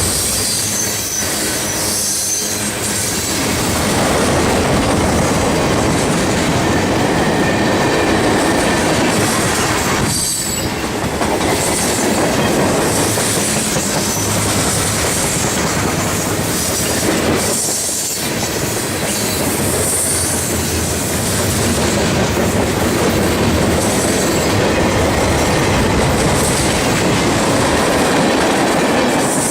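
Cars of a CSX mixed freight train rolling past: a steady rumble of steel wheels on rail with clicking over the rail joints and intermittent high wheel squeal.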